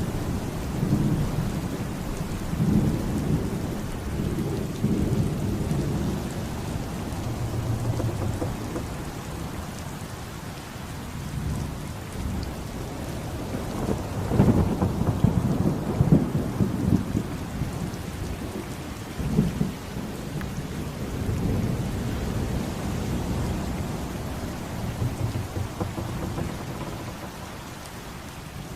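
Steady rain with thunder rumbling and rolling on and off, the heaviest rumbles about halfway through.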